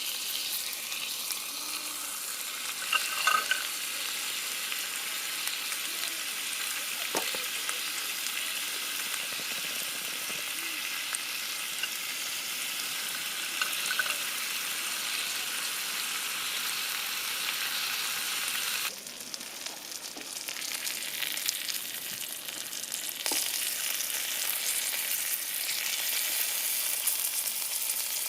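Steady sizzling hiss of food frying in a pan on a camp stove. The hiss thins out for a few seconds about two-thirds of the way through, then returns.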